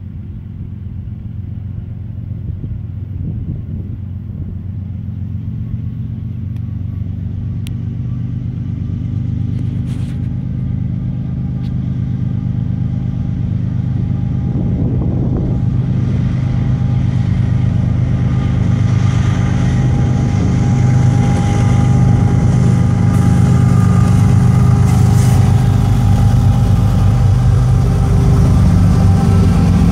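Diesel locomotives hauling a double-stack container train, approaching and passing close by. Their engine drone grows steadily louder, with rolling rumble from wheels on the rails filling in over the second half.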